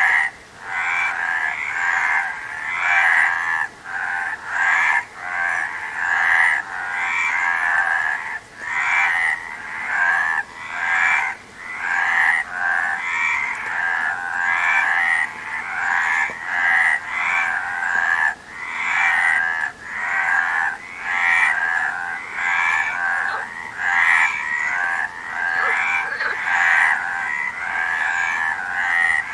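A chorus of frogs croaking, many calls overlapping into a continuous din that swells and dips every second or so.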